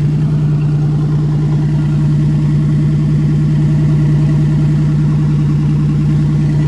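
A 1990 Buick Century's 3.3-litre 3300 V6 running steadily in the cold shortly after a winter cold start: an even low hum with a fast, regular pulsing.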